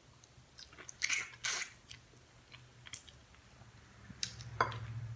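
A person eating tender turkey neck meat off the bone by hand: scattered wet mouth smacks and chewing, loudest about a second in. A low steady hum comes in near the end.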